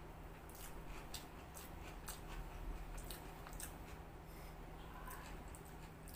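Close-up chewing and mouth sounds of someone eating noodles and chicken Manchurian, with scattered soft clicks as a metal fork picks food from a clay bowl, over a faint steady low hum.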